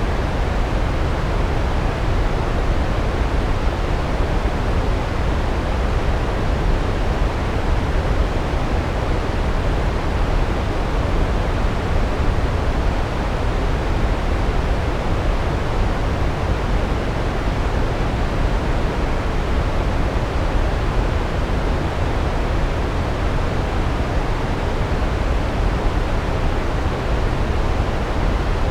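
Large waterfall: a steady, dense rush of water, strongest in the low end and unchanging throughout.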